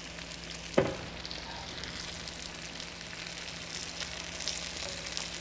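Chicken breasts sizzling as they pan-fry in a skillet, a steady crackle, with one short knock about a second in.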